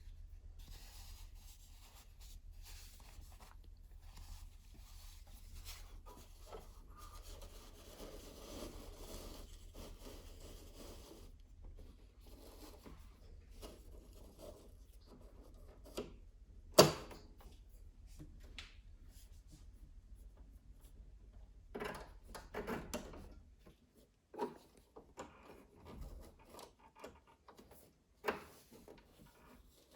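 Hands working on a sewing machine during a repair: quiet rubbing and scraping of parts, with scattered small clicks and knocks and one sharp click a little past halfway.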